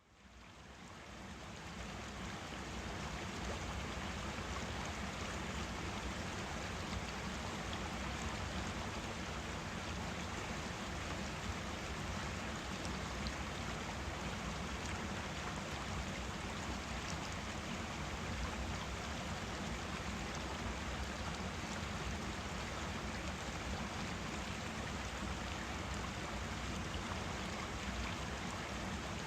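A forest stream flowing steadily, an even rush of water that fades in over the first few seconds.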